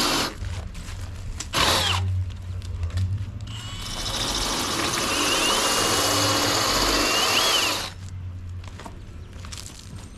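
Power drill boring into a brick wall in runs: a short burst about a second and a half in, then a longer run of about four seconds that cuts off suddenly near the end.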